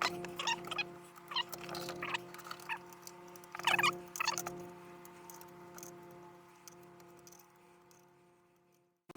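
Small clicks and light metallic ticks from bolts and an Allen key being worked while a fan is fastened into a plastic control box, fading off toward the end, over a steady low hum.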